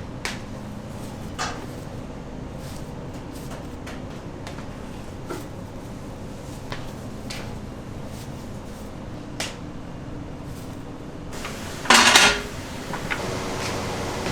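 Kitchen work in a barbecue restaurant: scattered knocks and clinks over a steady hum, with one louder, noisier clatter about twelve seconds in.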